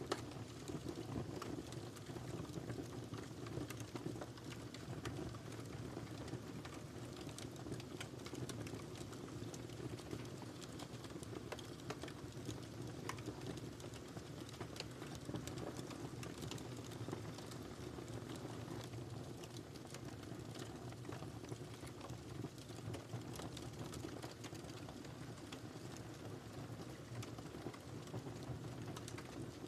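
Wood fire crackling steadily in a fireplace: frequent small snaps and pops over a low, even rumble of burning.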